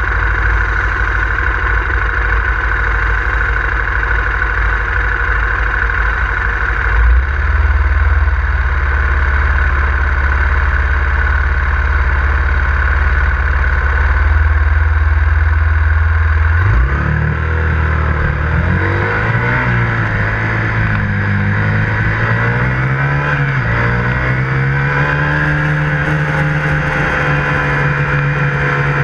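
Single-cylinder engine of a KTM Duke 125 motorcycle idling steadily. About two-thirds of the way through, it pulls away and revs up, its pitch rising with brief dips as it shifts up through the gears.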